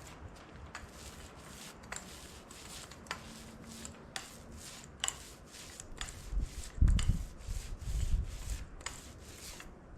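Paint roller being worked back and forth over a metal tractor weight: a rhythmic run of short rubbing strokes, about two a second. Some low bumping around seven to eight seconds in, the loudest part.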